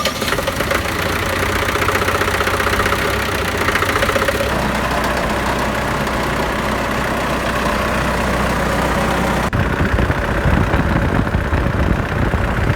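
Truck engine idling steadily just after being started, following an overhaul for an abnormal engine noise. Its sound changes abruptly about two-thirds of the way through.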